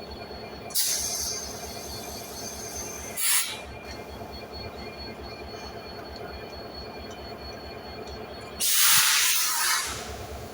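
Diesel locomotive idling with a steady low, pulsing rumble, cut by three sudden blasts of compressed-air hiss from its brake system: one about a second in, a short one about three seconds in, and the loudest and longest near the end.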